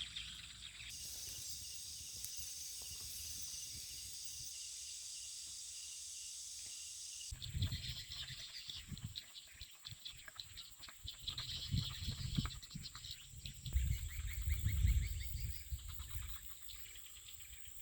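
Outdoor ambience with a steady high insect drone. About seven seconds in the background changes abruptly, and irregular rustling, clicks and low thumps come and go over it.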